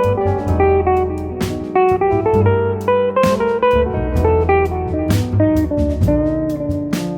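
Instrumental jazz: a guitar plays a run of single notes over walking double bass and drums, with cymbal strokes throughout.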